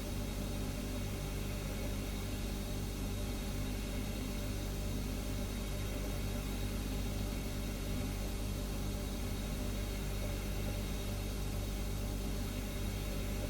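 Refrigerator humming steadily: a low, even hum with a faint hiss over it, unchanging throughout.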